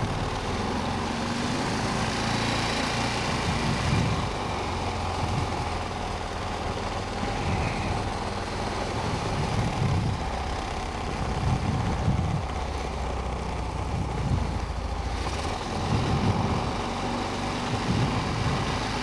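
Honda Rincon 650 quad's single-cylinder four-stroke engine running as the quad is ridden, its note rising and easing every couple of seconds, over a steady hiss.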